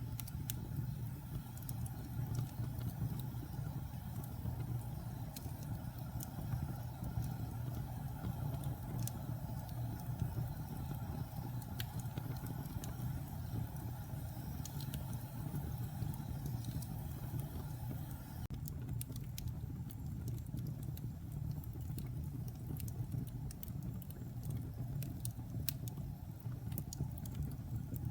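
Wood fire burning in a fireplace: a steady low rumble of flames with scattered sharp crackles and pops from the burning logs. The crackles come more often in the last third.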